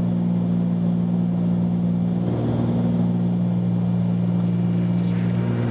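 Cockpit drone of a 1974 Cessna 310Q's twin piston engines and propellers, running steadily at climb power with an even, unchanging pitch.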